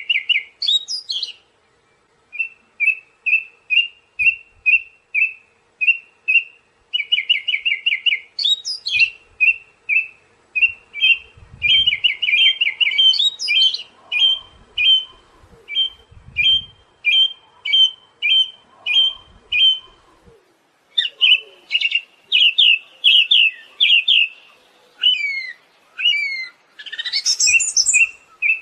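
Siberian thrush singing: fast runs of short chirps on one pitch, repeated several times a second, broken now and then by quick whistled sweeps up and down in pitch. The song pauses briefly twice.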